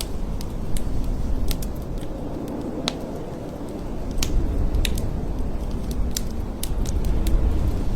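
Blizzard wind blowing in heavy gusts, a deep rushing noise that eases a few seconds in and then builds again, with scattered sharp ticks over it.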